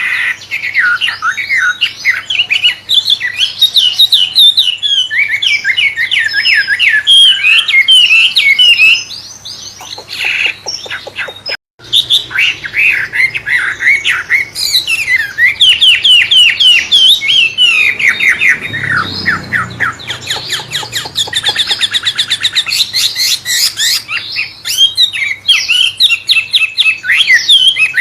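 Wambe songbird singing a loud, fast, varied song of whistles, chirps and rattling trills, murai-like in style. The song breaks off briefly about ten seconds in, and a run of fast trills comes about twenty seconds in.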